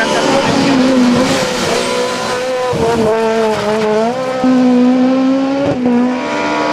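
Rally car engine running hard at high revs. Its pitch dips and climbs again a couple of times as the driver shifts or lifts off.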